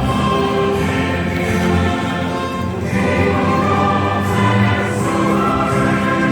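A choir singing long held notes with instrumental accompaniment.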